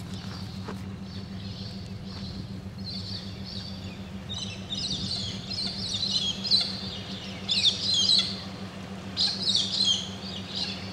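Birds calling: quick, chattering series of high calls, louder from about four seconds in, over a steady low hum.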